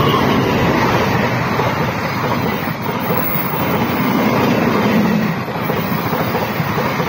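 Passenger train passing close by at speed, a diesel locomotive followed by its coaches, the wheels running over the rails in a loud, steady rush.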